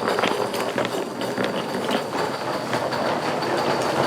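Coal-fired steam locomotive No. 4633 moving in reverse, its wheels and running gear clicking irregularly over the rails.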